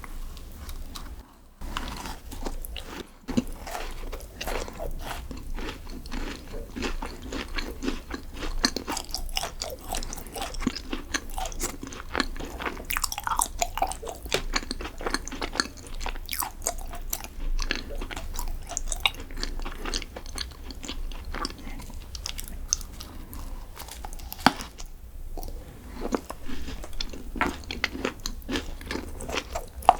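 Close-miked chewing of chocolate desserts, with steady crunching and crackling bites and wet mouth sounds.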